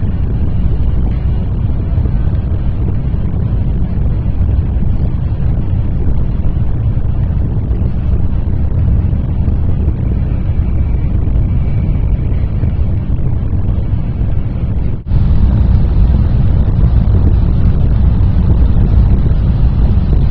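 Steady low rumble of a train running at speed, heard from inside the passenger car. About fifteen seconds in it abruptly gets louder.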